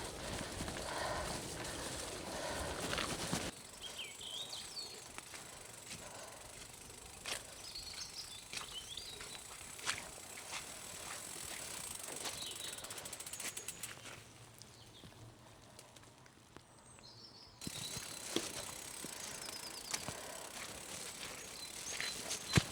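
Bicycle riding over a gravel track, with the tyres crunching and many short clicks and rattles. Small birds chirp now and then. The sound drops suddenly about three and a half seconds in and is quieter for a few seconds near the end.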